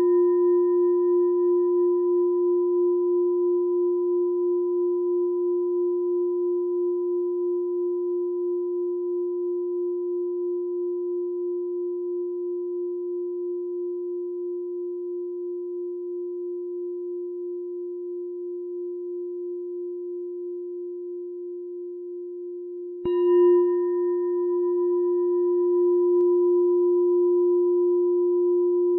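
A meditation bell rings with a long, wavering hum that fades slowly. About 23 seconds in it is struck again and rings on.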